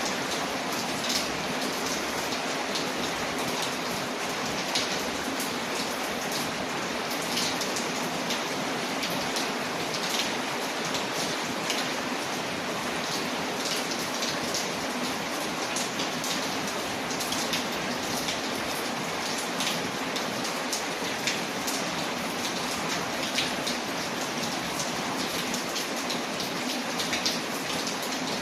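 Steady rain falling, with short sharp crackles of a wood fire scattered through it.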